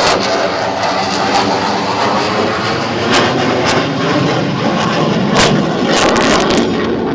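F-16 fighter jet's single jet engine running loud and steady as the jet flies its demo, with sharp crackles scattered through and a cluster of them about six seconds in.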